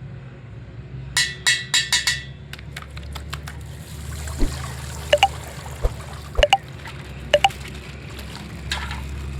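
Coloured water pouring and splashing out of a punctured plastic pouch, with a cluster of sharp plastic clicks and crackles about a second in and a few smaller clicks and knocks later.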